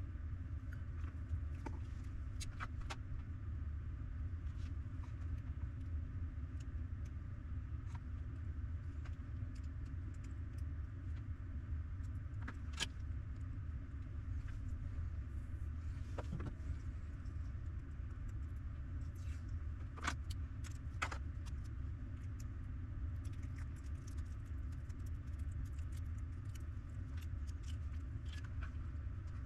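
Scattered light clicks and taps, a few sharper ones and a denser run near the end, over a steady low rumble.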